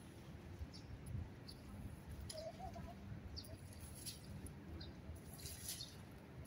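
Small birds chirping in short, repeated high notes, with a denser run of chirps near the end, over a steady low city rumble.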